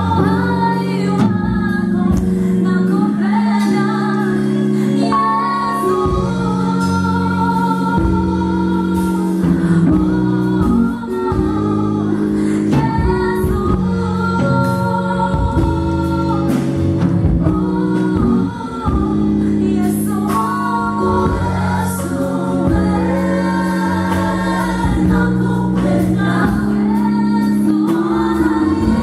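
Contemporary Christian gospel song with an African sound: a choir of voices singing held harmonies over a steady band accompaniment.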